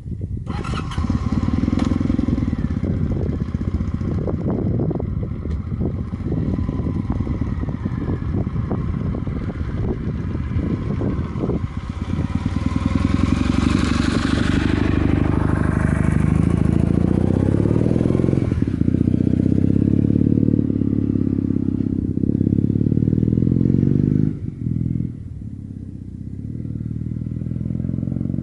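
Kawasaki W800 air-cooled parallel-twin running through a Remus aftermarket exhaust. The first twelve seconds or so are full of clattering knocks; after that the engine note grows louder and steadier, with a brief dip around the middle of the last third.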